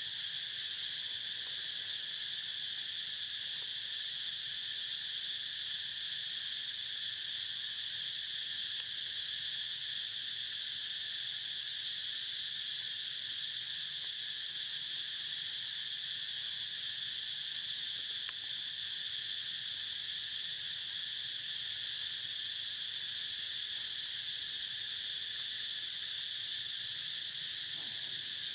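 Steady chorus of insects, a continuous high-pitched trill that never breaks or changes.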